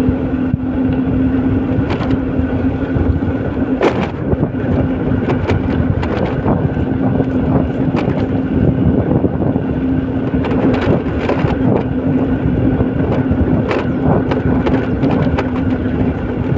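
A road vehicle driving along, with steady engine and tyre noise under a constant drone and occasional short knocks and rattles.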